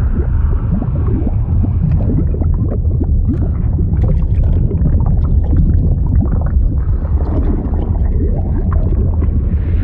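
Liquid sound effect: a continuous deep rumble with many short gurgles and bubbling blips over it.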